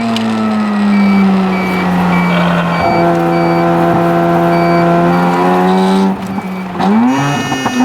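Mazda RX-7 FC3S's naturally aspirated half-bridge-ported rotary engine pulling at high revs. Its note sags slightly and then holds steady, drops away briefly about six seconds in, and rises again near the end. A high, repeating beep sounds through the middle stretch.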